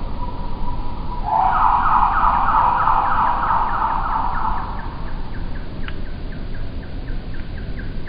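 Backyard birdsong slowed about four times and pitched down about two octaves. A short call repeats about three times a second, and from about a second in a loud, rapid trill of falling notes runs for about three and a half seconds.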